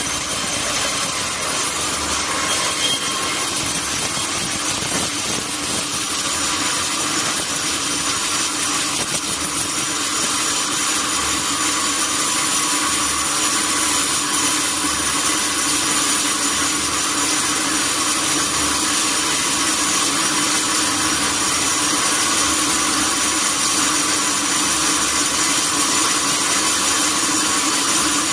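Sawmill saw cutting through a durian wood log: a steady, unbroken hiss of the blade in the wood over a constant hum from the machine.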